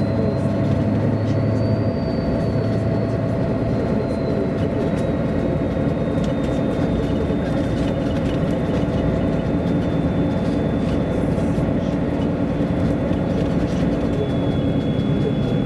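MAN A23 NG313 articulated city bus under way: steady engine and road noise with a thin high whine and light rattles.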